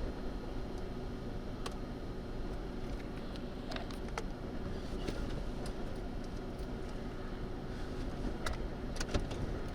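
Gusty wind rumbling on the microphone, with scattered sharp ticks throughout.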